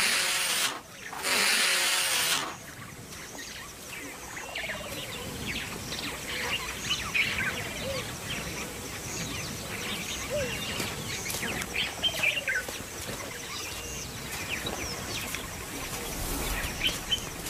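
Two loud bursts of rushing noise in the first couple of seconds, then many small birds chirping in quick, scattered calls over a steady outdoor background hiss.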